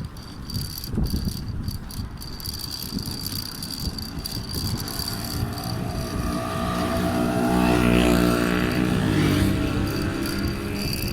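A motor vehicle's engine approaches and passes close by. It is loudest about eight seconds in and then fades, over wind buffeting the microphone of a moving bicycle. A thin steady high tone sounds throughout.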